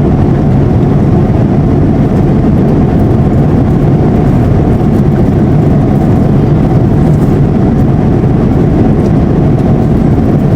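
Steady rumble of jet airliner cabin noise in flight, an even roar of engines and airflow that holds level throughout.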